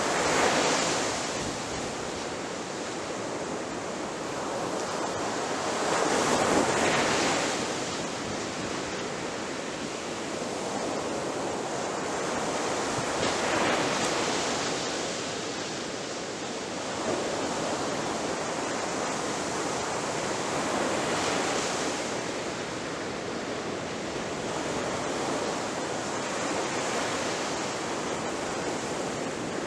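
Ocean waves breaking on a shore: a continuous wash of surf, with a louder surge of a breaking wave about every seven seconds.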